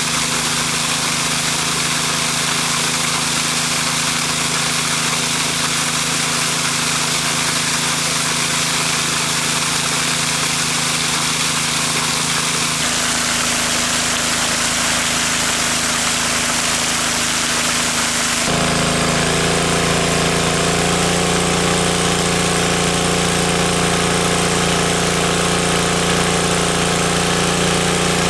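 A small engine running steadily under a constant rushing hiss. Its tone changes about thirteen seconds in, and again about eighteen seconds in.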